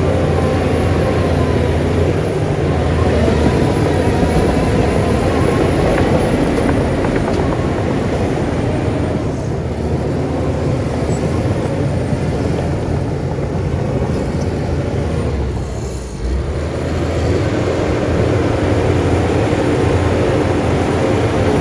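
Diesel engine of heavy earthmoving machinery running steadily, with a short dip in loudness about sixteen seconds in.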